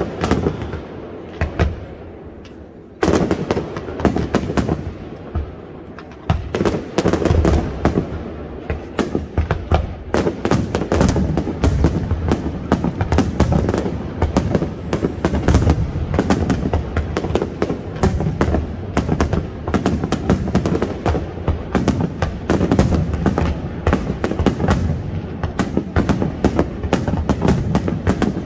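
Aerial fireworks display: shells bursting in a sharp bang at the start and another about three seconds in, then a dense, unbroken barrage of bangs and crackling from about six seconds on.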